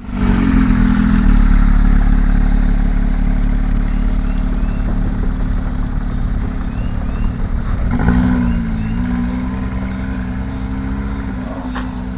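A car engine running loud and close, its steady low note lifting briefly about eight seconds in before settling again.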